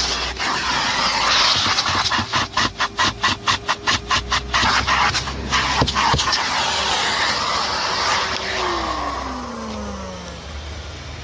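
Numatic Henry HVR200-22 vacuum cleaner sucking air with a steady motor tone, the suction noise pulsing rapidly for a couple of seconds. Past the middle, the motor is switched off and winds down, its tone falling steadily as the rushing fades.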